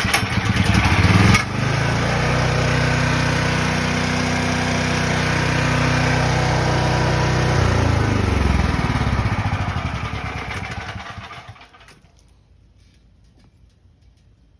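Briggs & Stratton Storm Responder 6250 portable generator, converted to tri-fuel, starting with the choke closed: its small single-cylinder engine catches at once, runs steadily for about ten seconds, then winds down and stops about twelve seconds in.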